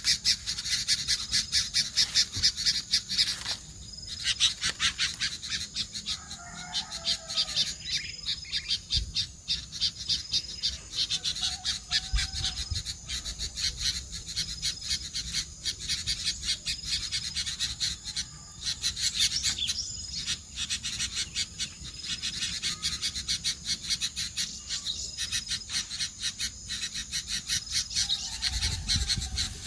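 Birds calling outdoors: a dense, fast high-pitched chirring runs throughout, with short repeated high notes and a few lower, briefer calls about a third of the way in and near the end.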